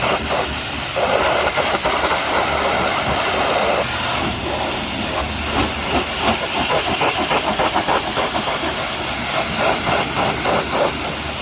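High-pressure washer spraying water, a steady hiss that flickers as the jet sweeps over the surface.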